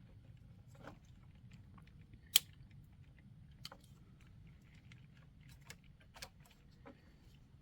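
Scattered small clicks and snaps of hands working plastic wiring connectors and clips, with one sharper click about two and a half seconds in, over a low steady hum.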